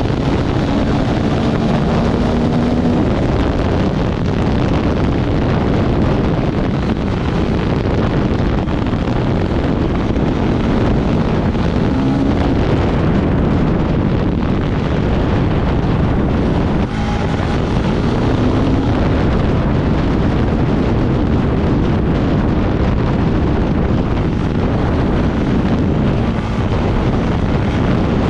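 Off-road motorcycle engine running under way, its pitch rising and falling with the throttle, nearly buried under heavy wind noise on the microphone.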